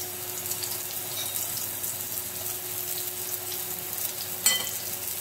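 Courgette slices sizzling in hot oil in a frying pan as more slices are laid in with tongs: a steady frying hiss, with one sharp metallic clink near the end.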